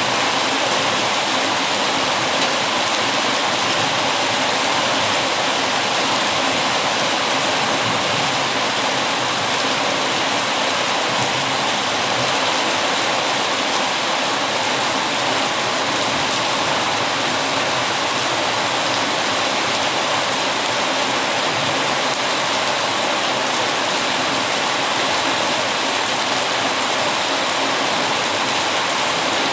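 Heavy rain falling, a steady, unbroken hiss with no distinct drops or breaks.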